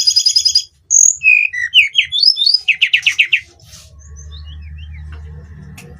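Hill blue-flycatcher singing. A fast trill is followed by a run of quick, varied whistled notes sliding up and down, then another fast trill, and the song stops about three and a half seconds in.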